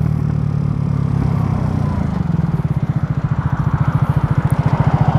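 Scooter engine with an 88cc big-bore kit, heard while riding. It runs at high revs, which the rider puts down to variator rollers that are too light (6.5 g). About two seconds in the note drops and the engine settles into an even, rapid pulsing beat.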